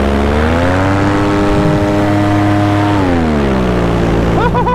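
Paramotor engine and propeller running in flight: the throttle is opened about half a second in, so the engine's pitch rises and holds, then it is eased back about three seconds in and the pitch falls to a lower steady note.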